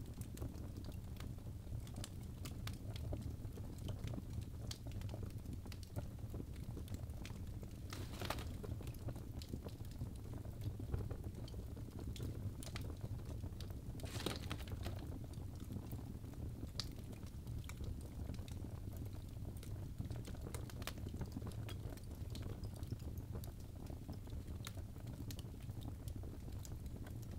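Birch logs burning in a fireplace: a steady low rush of flame with frequent small crackles, and two louder pops about eight and fourteen seconds in.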